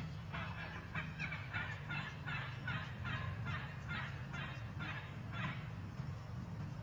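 A bird calling a rapid run of about fifteen short notes, around three a second, stopping about five and a half seconds in.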